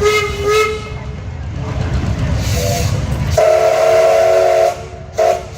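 Steam whistles on a 1913 Gaar-Scott steam traction engine, several whistles blown together. A short toot at the start is followed by a low rumble, then a loud, steady chord blast for over a second from about three and a half seconds in, and a brief toot near the end.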